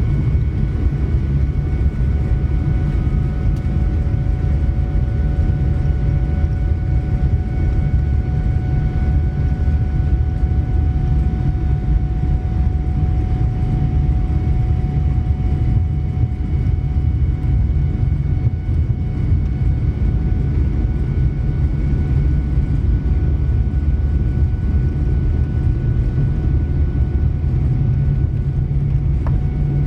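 Boeing 787-9 engines heard inside the cabin at high thrust: a loud, steady rumble with several steady whining fan tones above it.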